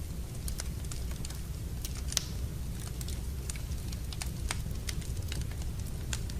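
Wood fire burning in a fireplace, crackling with irregular sharp pops, the sharpest about two seconds in, over a steady low rumble.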